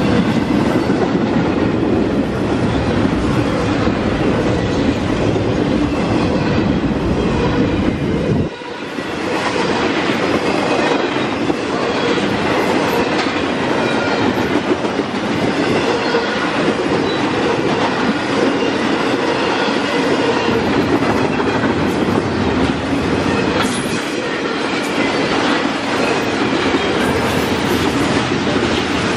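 Intermodal freight train's cars passing at speed: steady, loud steel-wheel-on-rail noise from trailer flatcars and double-stack well cars. A deep rumble drops away suddenly about eight seconds in, and the rolling noise carries on.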